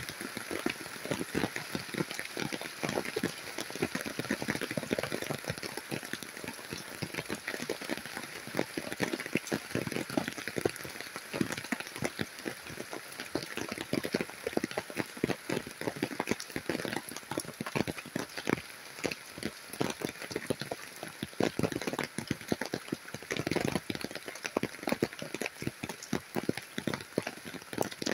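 Heavy rain falling on grass and broad leaves: a steady downpour hiss thick with the clicks of countless individual drops striking nearby.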